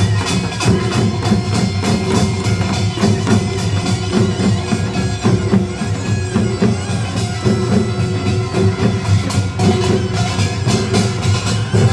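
Gyeongsang-do nongak, Korean farmers' band music: a percussion ensemble of small hand gongs and drums playing a fast, driving rhythm of dense, even strokes.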